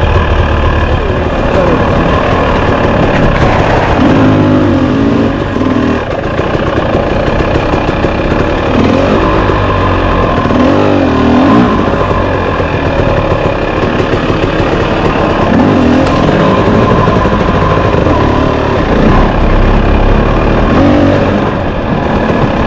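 A 2024 Husqvarna 300TX two-stroke dirt bike engine running while ridden on trail, its revs rising and falling again and again as the rider works the throttle.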